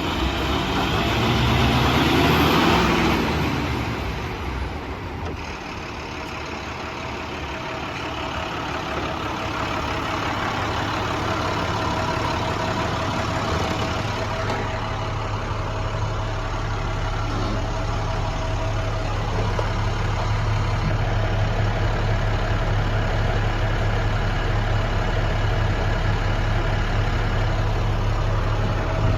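Diesel engine of a 2010 International WorkStar 7400 dump truck (MaxxForce diesel) running. It swells louder for the first few seconds, then settles into steady running with a strong low hum.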